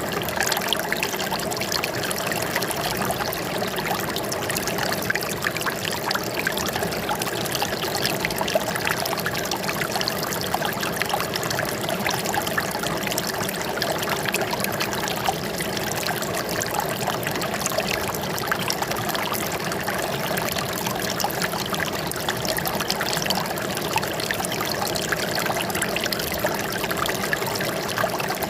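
Running water trickling and splashing steadily, with many small splashes over an even rush.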